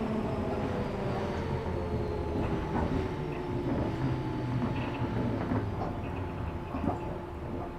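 Interior running noise of a 113 series 1500 subseries electric train slowing down. The motor and gear whine slides down in pitch as the rumble fades, with scattered light clicks from the wheels and rail joints.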